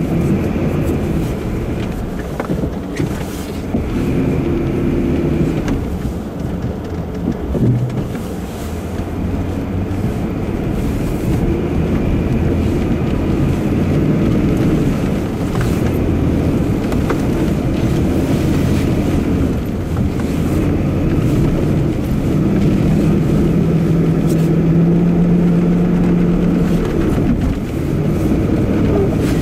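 Lifted Dodge Ram 1500 pickup's engine running under load while the truck ploughs through deep snow, heard from inside the cab. The engine note shifts up and down, holding a higher steady note for a few seconds near the end.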